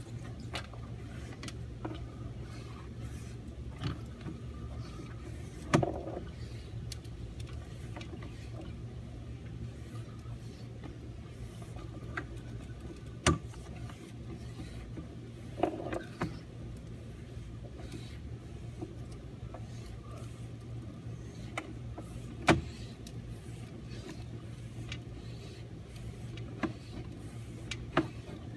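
A steady low motor hum, with scattered clicks and a few sharper knocks through it.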